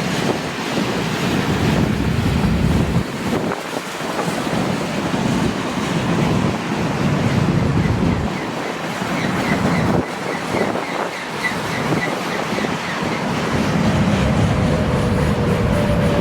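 Gusty wind buffeting the microphone over the steady rumble of a freight train. Near the end a thin tone comes in and slowly falls in pitch.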